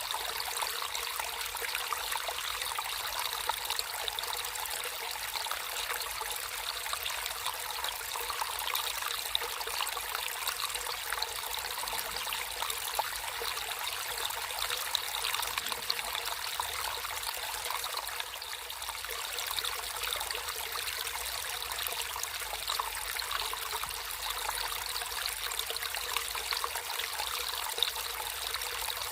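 Natural running water trickling and splashing steadily in a small stream: a bright, even babble of many small splashes with no deep rumble.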